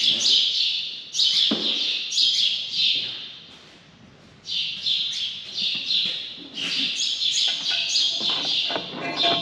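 Small birds chirping busily, many short high calls overlapping, with a lull of about a second partway through.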